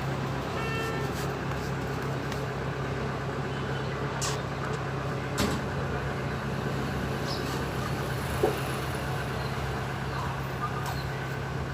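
A steady mechanical hum over a background of noise, with a few sharp clicks or knocks, the loudest about five and eight and a half seconds in.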